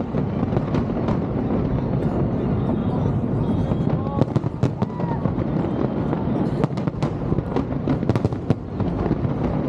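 Fireworks display bursting over the harbour: a continuous rumble of many overlapping bangs. The bangs thin out in the middle and come thick and fast again for the last few seconds.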